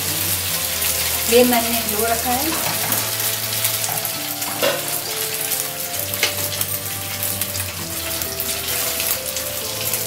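Spanish omelette batter of beaten egg and chopped vegetables sizzling as it fries in plenty of hot oil in a pan, with fine crackling throughout.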